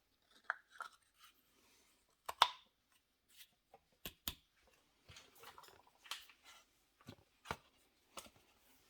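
Scattered clicks, knocks and short scrapes of tools and parts being handled during shock absorber replacement work, the sharpest knock about two and a half seconds in.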